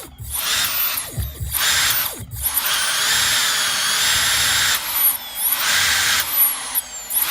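Brushless RC boat motor run on the bench by its ESC, a high electric whine that cuts out and restarts a few times as the throttle is worked, then runs on with its pitch wavering. The owner finds this motor vibrating and running too hot, and judges it broken.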